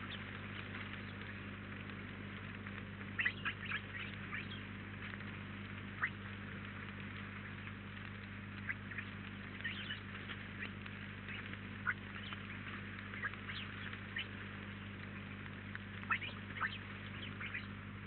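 Small birds giving short, sharp chirps, scattered irregularly and in a few quick clusters, over a steady low hum.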